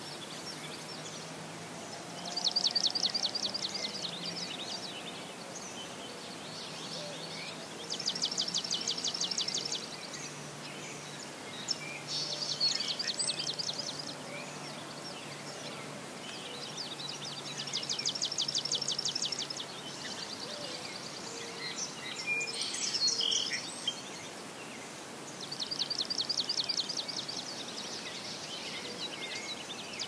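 A songbird singing a fast trill, each about two seconds long, repeated every few seconds over a soft marsh background.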